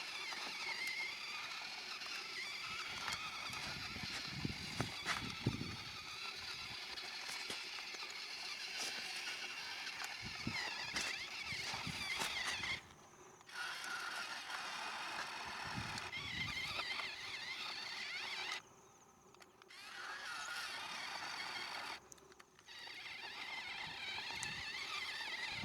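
Small electric RC model motors and gears whining, the pitch wavering up and down, with a few low knocks early on. The sound cuts out abruptly three times.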